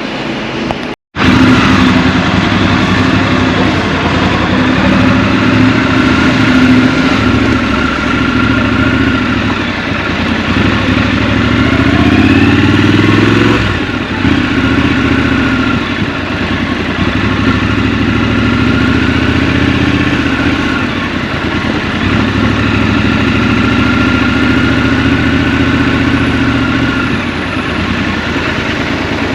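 Scrambler motorcycle engine running while ridden, heard from the rider's position. It cuts out completely for a moment about a second in, then runs on with the revs rising and falling, climbing around halfway through before easing off.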